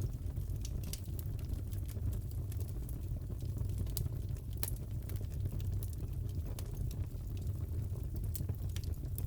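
Fireplace ambience: a wood fire crackling, with irregular sharp pops and snaps over a steady low rumble.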